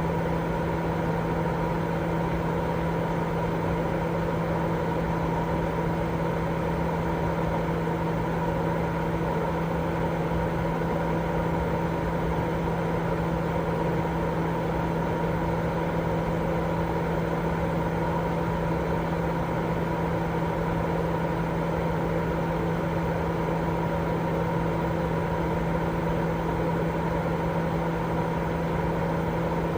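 Continuous steady sleep-aid noise, a constant rushing hiss with an even low hum running through it.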